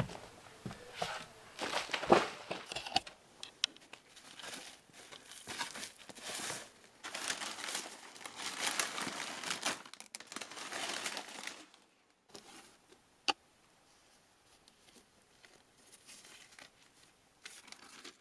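Irregular rustling and crinkling, stronger in the first twelve seconds, with one sharp click about thirteen seconds in and only faint rustles after it.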